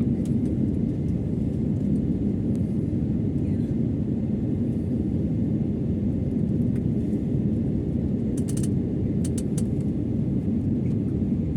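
Steady low rumble of jet engines and rushing air heard inside an airliner cabin, with a few light clicks about eight to nine seconds in.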